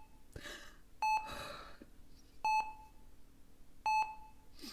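Hospital patient monitor beeping, a short single-pitched beep repeating evenly about every second and a half, with soft rustling in between.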